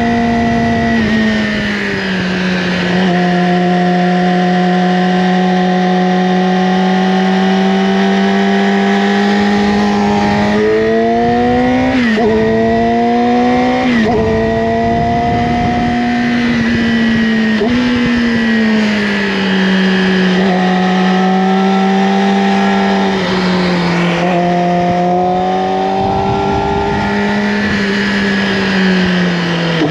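Yamaha R6's inline-four engine through an Akrapovic slip-on exhaust, running at steady revs under way. About halfway through it revs up twice, each rise cut short by a sudden drop in pitch as it shifts gear. The revs then settle and ease off near the end.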